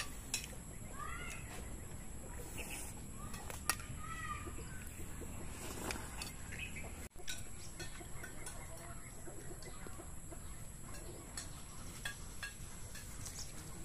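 Faint backyard birds calling, a few short chirp-like calls in the first few seconds, over a low, even rural background, with a few light clicks.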